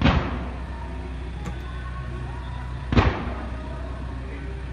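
Two aerial firework shells bursting about three seconds apart, each a sharp boom with a rumbling echo that dies away, in a sporadic display.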